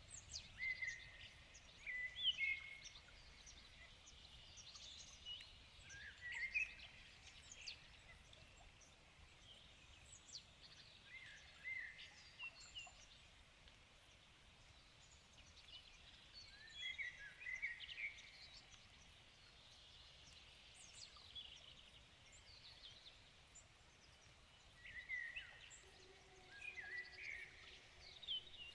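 Several songbirds singing and calling in the evening: short whistled phrases and quick chirps come in scattered clusters over a faint steady background hiss. A faint low steady hum joins near the end.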